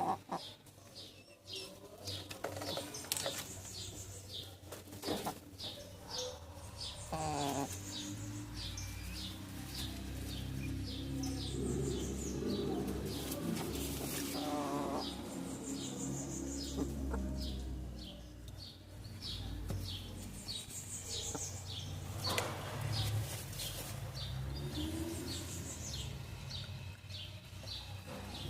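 Chickens calling: a steady run of short high peeps, about two a second, with a few lower clucking calls now and then over a low rumble.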